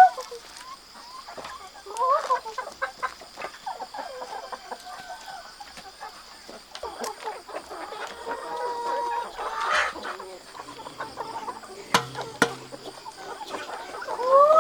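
Chickens clucking, with a short rising call about two seconds in and another at the end. A sharp click comes about twelve seconds in.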